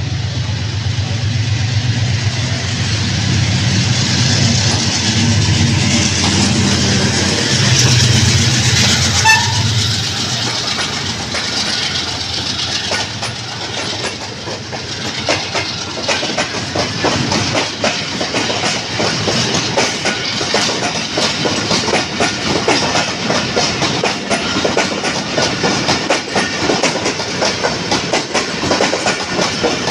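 A passenger train passing: for the first third, the low steady running of the AGE30 diesel-electric locomotive 6030. After that comes the rapid, uneven clatter of the coaches' wheels over the rail joints.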